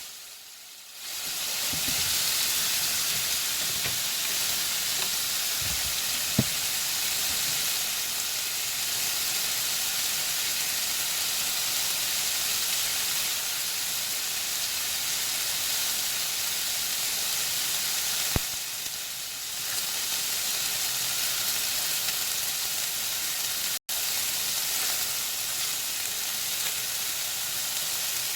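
Thin-sliced chicken tenders frying in butter in a pan, sizzling steadily, with a few single clicks. The sound cuts out for an instant near the end.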